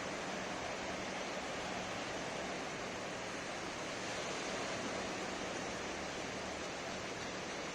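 Ocean surf on a sandy beach: a steady, even wash of breaking waves with no single wave standing out.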